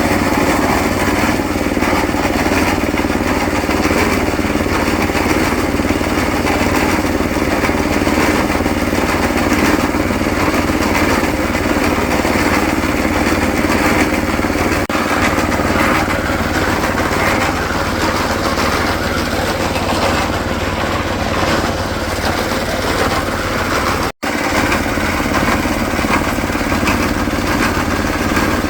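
Small engine of an on-site concrete mixer running steadily during a concrete pour, with a split-second break about 24 seconds in.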